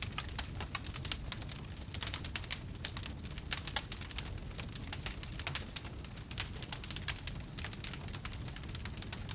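Wood bonfire burning, with dense, irregular crackles and pops over a low steady rumble.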